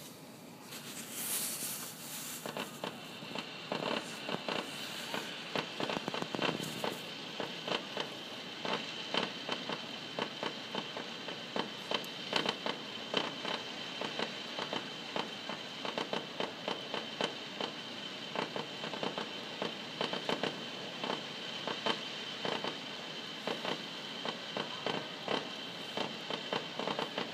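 Distant aerial fireworks finale: a rapid, continuous string of bangs and crackling shell bursts, starting about a second in.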